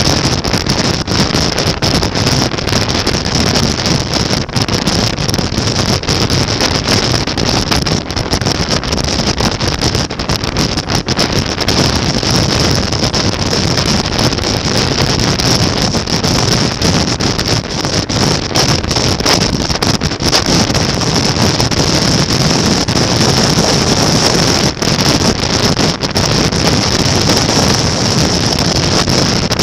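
Steady wind buffeting on the microphone over motorcycle engine and road noise, as heard while riding along.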